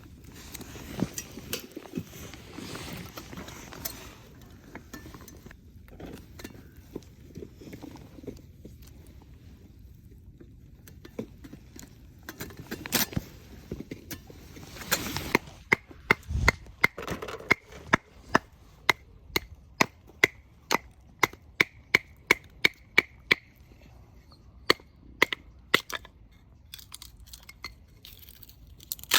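Firewood being chopped or split for a campfire: scattered handling and rustling at first, then from about halfway a run of sharp, evenly paced strikes, about two a second, some with a short ring.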